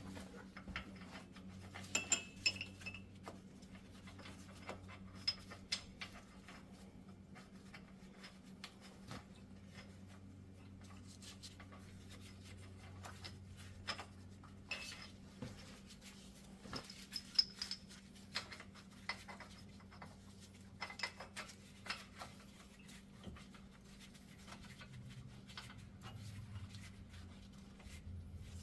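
Scattered light metallic clinks and ticks of hub-bearing bolts being started by hand, with wrench and parts knocking against the steel bearing and knuckle, over a faint steady hum.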